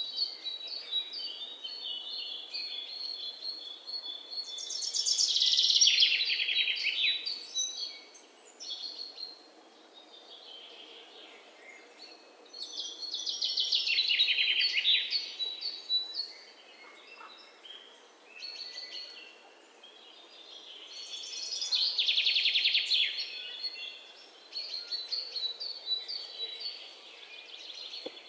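Songbirds singing. One bird repeats a loud, fast trilled phrase that falls in pitch about every eight seconds, with shorter high chirps from other birds in between.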